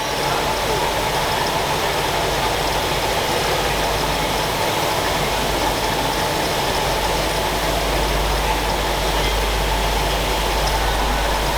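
Steady, loud mechanical running noise of a train, with a constant low hum and no rhythmic wheel beat.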